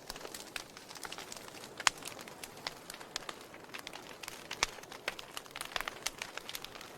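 Wood fire burning in a fireplace, crackling with irregular sharp pops over a soft hiss; the loudest pops come about two seconds in and just past four and a half seconds.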